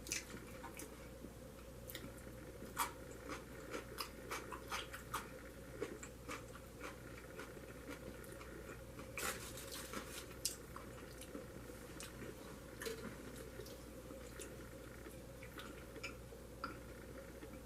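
A person chewing food close to the microphone: faint, irregular mouth clicks and smacks, a few at a time, scattered throughout.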